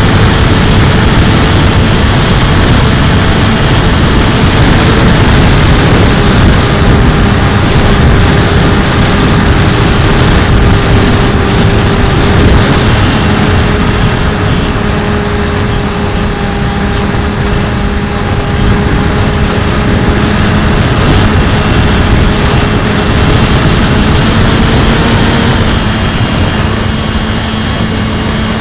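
Bixler 2 RC plane's electric motor and propeller whining steadily, the pitch dipping and rising a little with throttle, under heavy wind rumble on the onboard camera's microphone in gusty air.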